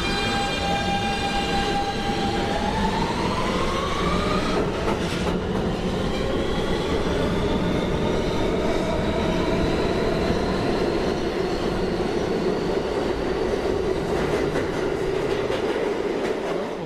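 New York City subway train on the R line pulling away. Its traction motor whine holds one pitch, then rises between about two and four seconds in as the train gathers speed, and gives way to steady wheel-on-rail running noise.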